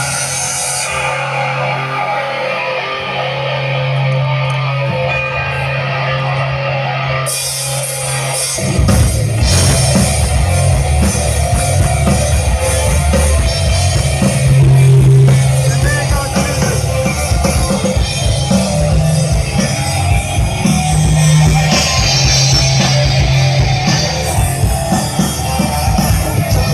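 Rock music with drums and guitar: a quieter build-up, then the full band kicks in about eight seconds in with a heavy beat.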